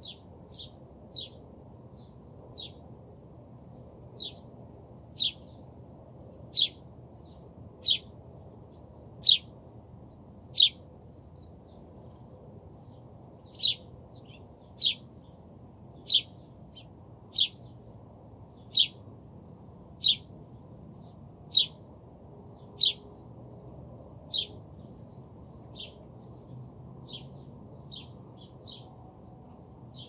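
A small bird gives a short, sharp chirp over and over, about once every second and a quarter. The chirps build to loud, stay strong through the middle, then grow fainter near the end.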